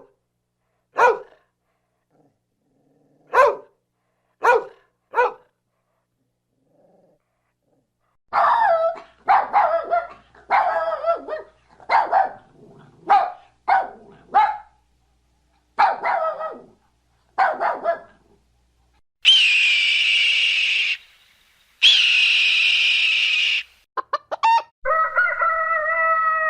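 A run of animal sound effects: a dog barking five times in the first few seconds, then a series of about ten short pitched calls, two long high calls, and a rooster crowing near the end.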